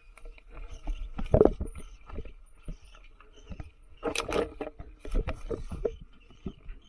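Mountain bike rolling over a rough forest trail: irregular knocks, rattles and scraping, with a louder clatter about a second and a half in and again about four seconds in.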